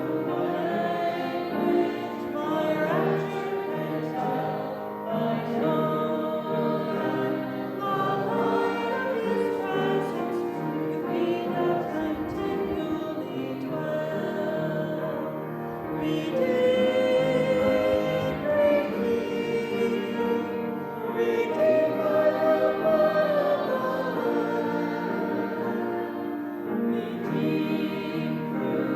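A church congregation singing a hymn together, many voices in unison.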